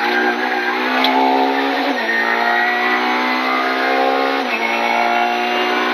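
Peugeot 207 Maxi rally car's engine heard from inside the cabin, accelerating hard and shifting up twice: from third to fourth about two seconds in and from fourth to fifth about four and a half seconds in, each shift dropping the engine note.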